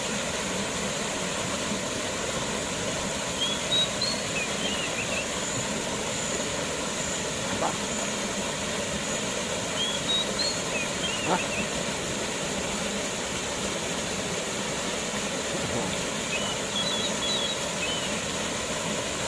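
Waterfall rushing steadily. Three short runs of high chirps from a bird sound over it.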